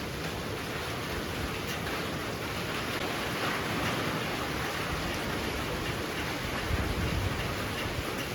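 Heavy rain pouring steadily as a dense hiss, swelling a little a few seconds in, with a short low rumble near the end.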